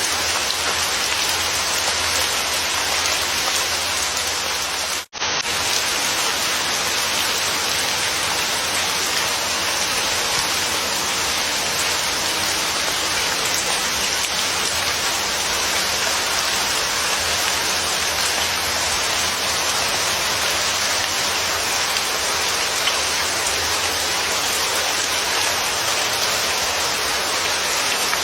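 Steady, dense rain falling, an even hiss of drops. It cuts out to silence for a split second about five seconds in, then carries on unchanged.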